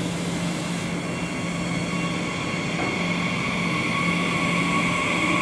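A DB class 445 double-deck electric multiple unit pulling slowly into the station, its running noise growing steadily louder as it nears, with a steady low hum and a high whine that strengthens towards the end.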